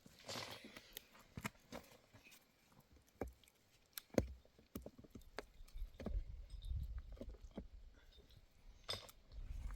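Irregular light clicks and knocks of objects being handled, with a sharper knock about four seconds in and a low rumble in the middle.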